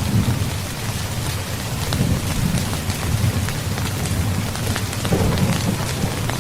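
Heavy steady rain falling on a surface, with scattered sharper drop ticks, over a continuous low rumble of thunder.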